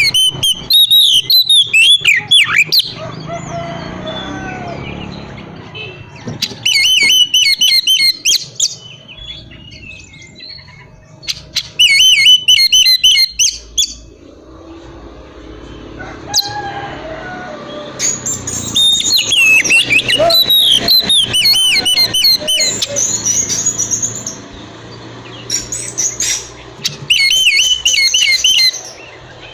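Oriental magpie-robin (kacer) singing loudly: bursts of fast, varied whistles and trills, repeated about five times with short pauses between.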